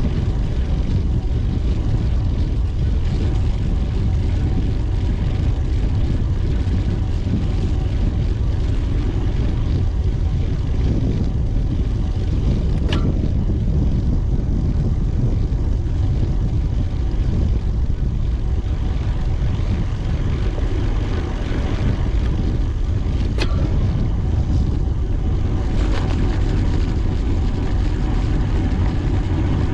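Steady, loud wind rumble on the microphone of a camera riding along on a bicycle, with a faint steady hum and three sharp clicks spread through it.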